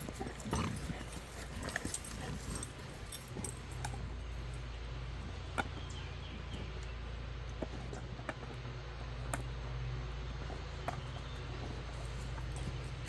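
A dog's small sounds over a steady low hum, with scattered short clicks and ticks.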